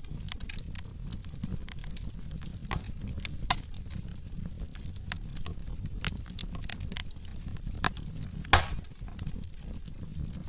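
Wood fire in a fireplace crackling over a low steady rumble of flames, with irregular sharp pops from the burning logs, one louder pop about eight and a half seconds in.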